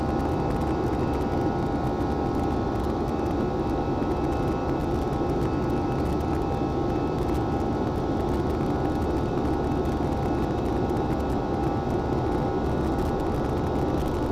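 Airliner cabin noise during the climb: steady jet engine and airflow noise with several faint steady whining tones, unchanging throughout.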